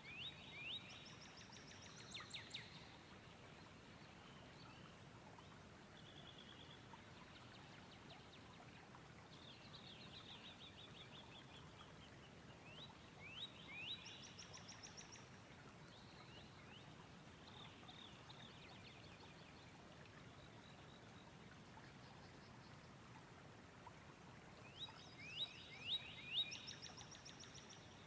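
A songbird singing: a short phrase of quick, downward-sweeping chirps, heard three times about twelve seconds apart, over a faint steady hiss.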